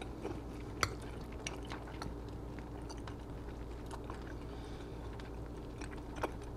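A person chewing a mouthful of rice and ground turkey, with a few sharp clicks of a metal spoon against the bowl, the loudest about a second in and another near the end, over a steady low hum.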